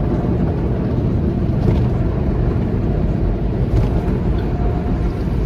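Automatic car wash running over the car, heard from inside the cabin: a steady, loud rush of water spray and machinery against the body and windows.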